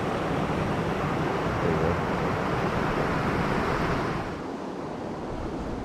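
Rushing river water mixed with wind on the microphone; the hiss eases and thins about four seconds in.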